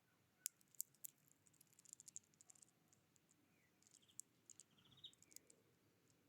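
Near silence, broken by scattered sharp high ticks and, about four to five seconds in, a faint short series of quick high notes from a small bird.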